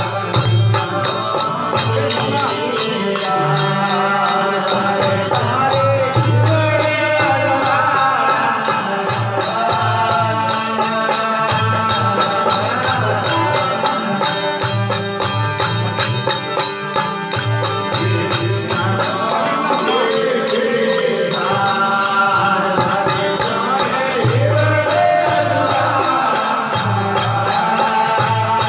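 Rajasthani devotional folk bhajan music with steady rhythmic percussion and jingling cymbals under a melody line.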